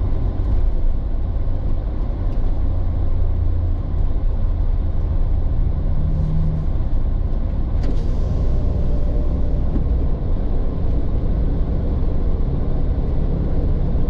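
Off-road recovery truck driving, a steady low engine and road rumble.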